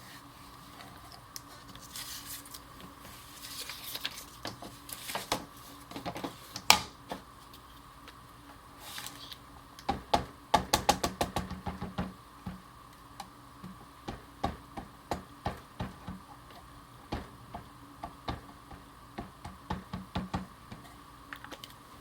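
Light taps and clicks of rubber-stamping work on a craft table, with a quick run of taps about ten seconds in.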